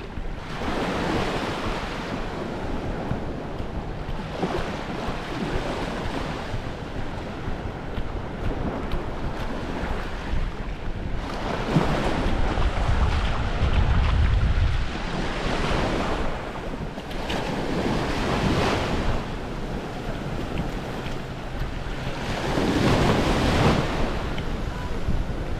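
Waves washing onto a beach, swelling and falling back every few seconds, with wind rumbling on the microphone, heaviest about halfway through and again near the end.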